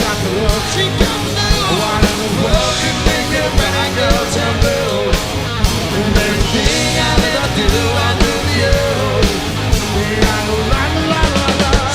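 Live rock band playing: a drum kit keeps a steady beat, about two hits a second, under bass and electric guitar.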